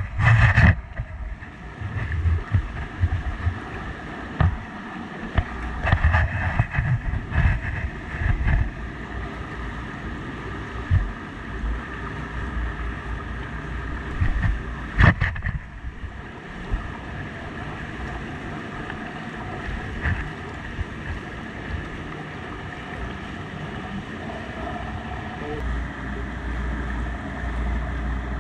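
Steady noise of a vehicle driving, with a low rumble and some wind, and a few knocks and bumps in the first half, the sharpest about fifteen seconds in.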